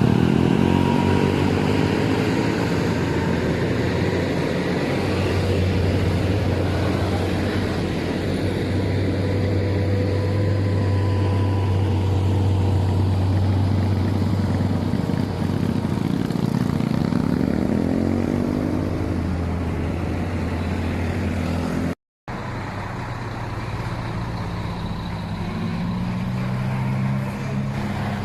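Heavy truck engines working up a steep climb, vehicles passing with their pitch rising and falling as they go by. A brief dropout about 22 seconds in, after which a different engine is heard.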